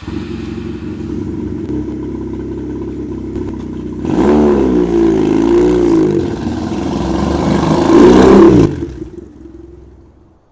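Motorcycle engine catching suddenly and running steadily. From about four seconds in it is revved up and down several times and is loudest near eight seconds. It then drops back and fades out over the last two seconds.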